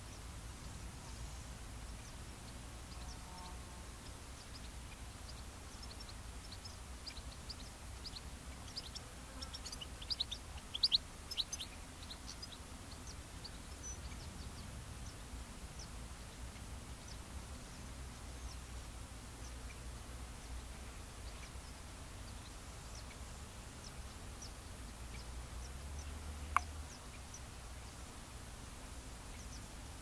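Birds chirping in an open field: short high calls scattered throughout, with a busier burst about ten to twelve seconds in, over a low steady rumble. Near the end, one sharp call sweeps down.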